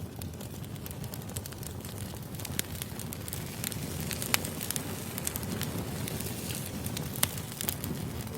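Firewood burning: a steady low rumble of the fire with scattered crackles and sharp pops, two of them louder, around the middle and again near the end.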